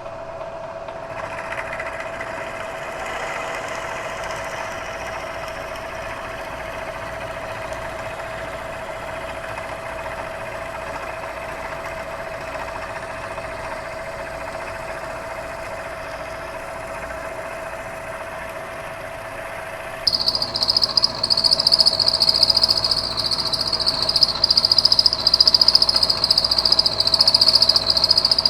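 Bridgeport milling machine spindle running a half-inch four-flute end mill with a steady whine. About twenty seconds in, a much louder, high-pitched, uneven cutting noise starts as the end mill bites into the metal on a side-milling pass.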